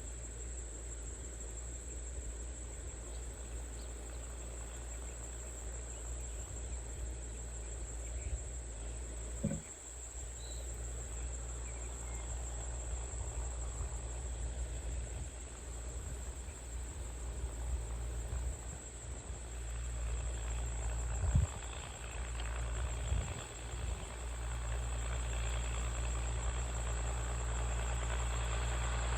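Insects, crickets or similar, keeping up a steady high-pitched chirring over a low, steady rumble, with a couple of brief knocks.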